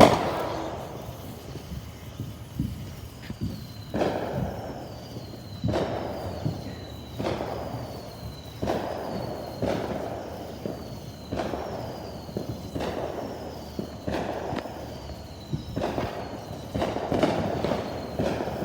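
Backyard consumer fireworks going off: one loud bang at the start, then a string of about ten shots roughly every second and a half, each dying away over about a second.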